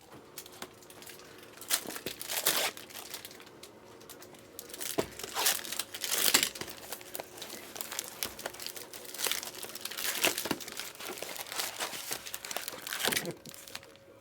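Foil trading-card pack wrappers being torn open and crinkled by hand: irregular rustling with sharp crackles, loudest about two and a half, six and thirteen seconds in.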